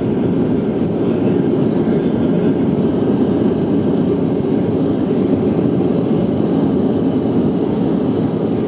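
Steady low noise of engines and airflow inside the cabin of a Boeing 737-800, even in level throughout.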